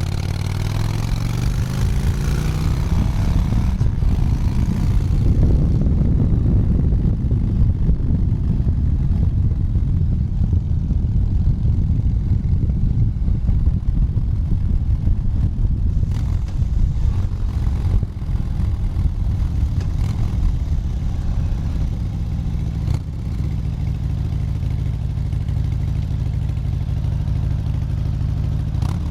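Motorcycle engine rising in pitch as the bike accelerates over the first five seconds, then running steadily at highway cruising speed.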